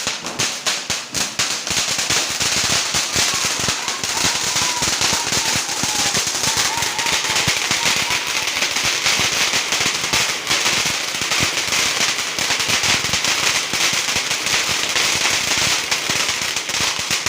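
Firecrackers going off in a rapid, unbroken crackle of pops for about seventeen seconds, stopping suddenly.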